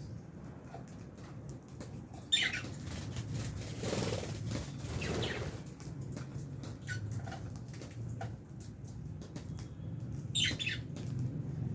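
Lovebirds in an aviary: a rush of wing flapping mid-way, short high chirps about two seconds in and again near the end, and many small clicks and taps throughout.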